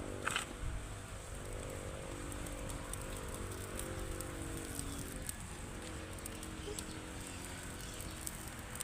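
Rain pattering with scattered drips. A brief high sound comes about a quarter second in.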